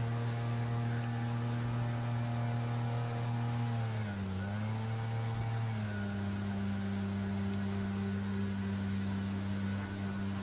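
Outboard jet-boat engine running at a steady speed; its pitch dips briefly about four seconds in, then settles at a new steady pitch.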